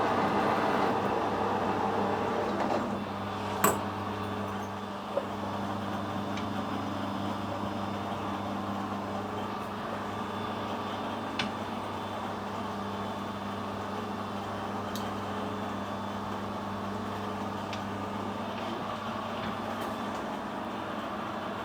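Metal lathe running with a steady motor hum while a countersink cuts the end of a bored hole; the cutting noise is loudest in the first three seconds, then the lathe runs on with a few light clicks.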